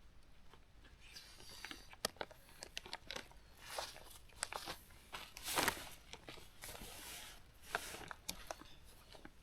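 Tent fabric and gear being handled during pitching: nylon rustling and crinkling in short swishes, with scattered small clicks and knocks.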